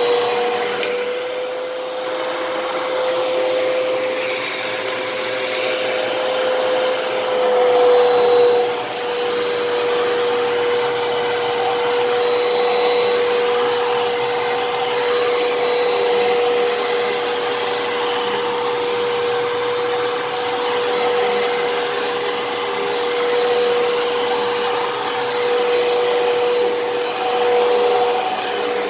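Fantom Fury vacuum cleaner running steadily: a constant motor whine over the rush of air. The whine shifts slightly in pitch about eight seconds in.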